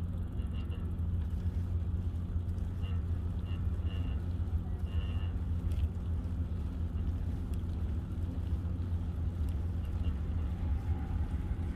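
Steady low rumble of wind and motion noise on the microphone of a moving bicycle, with a few brief high chirps in the first half.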